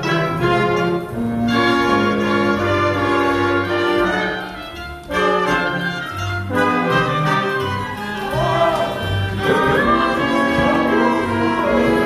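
Orchestral music with prominent brass, playing a phrase of sustained chords that pauses briefly about five seconds in.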